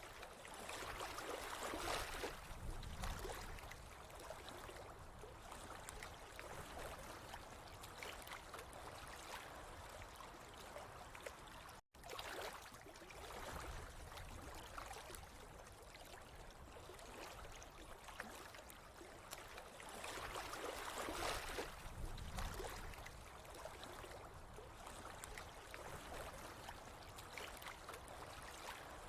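Running water trickling and gurgling, with swells that grow louder twice. The sound drops out for an instant near the middle.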